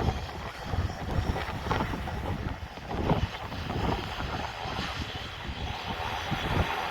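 Wind buffeting the microphone: an irregular, gusty low rumble with a hiss over it.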